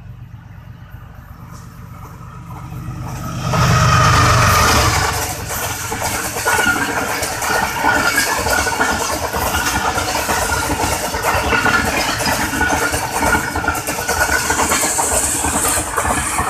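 Diesel-hauled express passenger train approaching and passing close by at speed. The locomotive's rumble builds and peaks about four seconds in, then the coaches' wheels clatter steadily over the rails.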